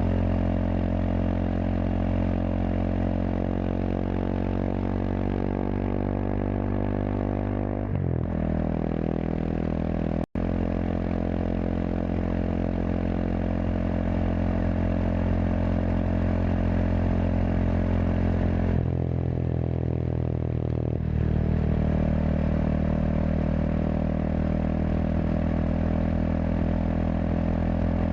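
Kawasaki KLX230SM's single-cylinder four-stroke engine running through a K-Factory FRC slip-on silencer while the bike is ridden at a steady pace. The engine pitch shifts about eight seconds in and dips then picks up again between about nineteen and twenty-one seconds in, with a momentary cut-out of all sound a little after ten seconds.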